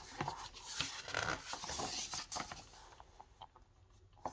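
Paper rustling, light scraping and small clicks from a picture book being handled, its pages turned, busiest in the first couple of seconds and then thinning out.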